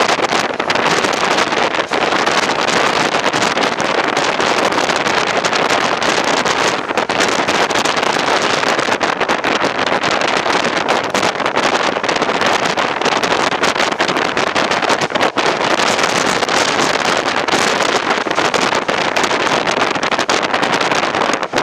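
An express train of ICF coaches running at speed, heard from on board: a steady rush of wind with wheel-on-rail running noise.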